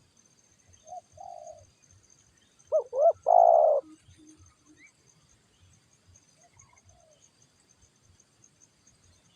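Spotted dove (tekukur) cooing: a short soft phrase about a second in, then a loud phrase near three seconds of two quick swooping notes and a long held note, trailing off in a few low short notes.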